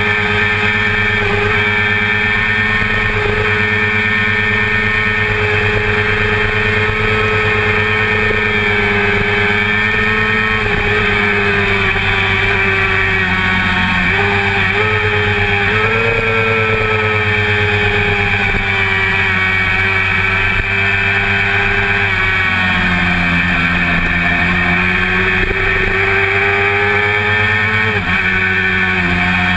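1988 Honda CBR400RR's inline-four engine running at high revs under racing load, heard from on board. Its pitch holds steady with a few brief dips around the middle and near the end.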